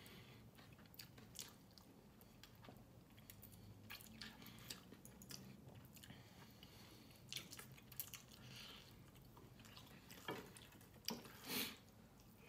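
Faint close-miked chewing and mouth sounds of someone eating chicken adobo and rice by hand: soft wet smacks and clicks scattered throughout, with a couple of louder mouth noises near the end.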